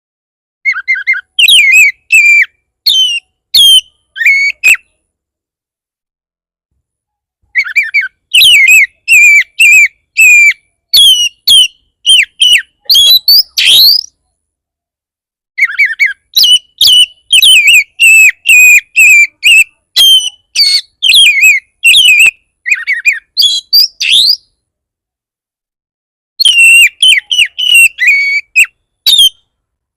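Oriental magpie-robin (kacer) singing loud, rapid, varied whistled phrases in four bouts with completely silent gaps between them. It is the fierce, agitated kind of song ('bar bar') that is played to provoke other kacer into answering.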